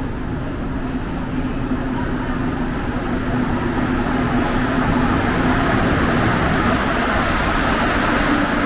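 Montreal Metro rubber-tyred train running, a steady low hum under a rushing noise that grows louder and brighter toward the end.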